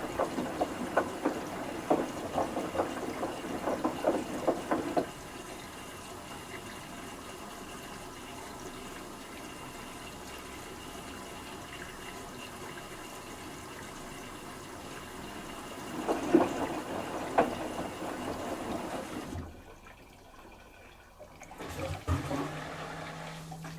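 LG Turbowash 360 AI DD washing machine at the end of its final rinse: water sloshing in the tumbling drum for the first few seconds, then a steady rush of water, another short bout of sloshing around sixteen seconds in, and near the end a steady hum as the direct-drive motor starts the final spin.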